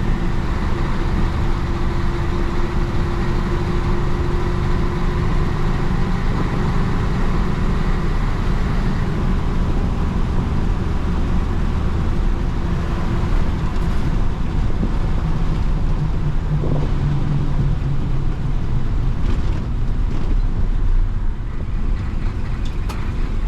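The 1966 Isuzu BXD30 bonnet bus's DA640 diesel engine running steadily as the bus drives along. Its hum shifts in pitch partway through.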